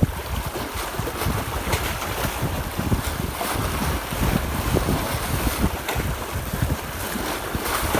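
Strong wind buffeting the microphone in uneven gusts, over the wash of the sea.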